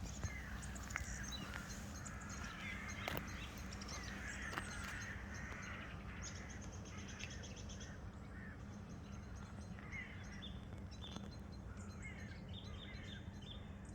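Several wild birds singing and chirping, with short trills and quick runs of high notes, over a steady low rumble.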